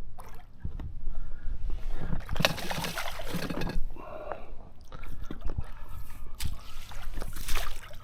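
A small hooked trout splashing and thrashing at the water's surface as it is played in on a fly rod, in irregular bursts of splashing.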